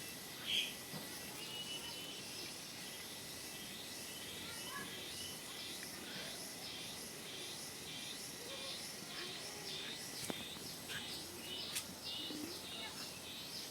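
Birds chirping faintly: a short, louder call about half a second in, then a run of short high chirps repeated about twice a second.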